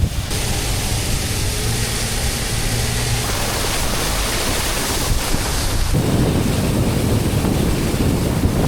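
Wind rushing hard over the microphone from a moving vehicle, with the vehicle's driving noise underneath; the rumble gets heavier about six seconds in.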